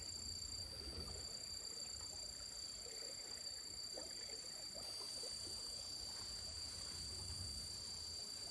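Outdoor ambience: a steady high drone of insects, with faint scattered frog-like calls and a low rumble.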